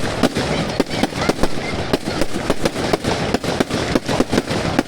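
Fireworks going off in quick succession: many sharp bangs and crackles a second, overlapping one another.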